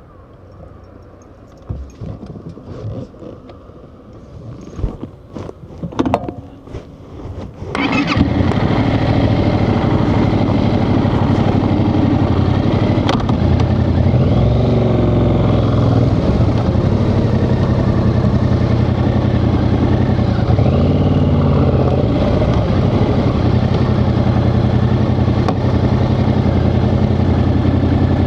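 Scattered clicks and knocks of handling, then about eight seconds in a Yamaha XSR700's 689 cc parallel-twin engine starts and settles into a steady idle.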